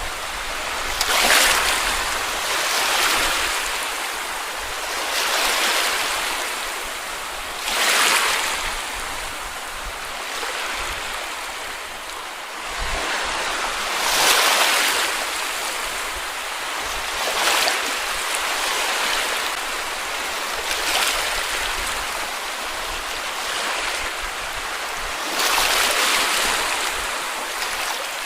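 Small waves breaking and washing up on a sandy beach, each surge swelling up every few seconds over a steady hiss of surf, with low wind rumble on the microphone.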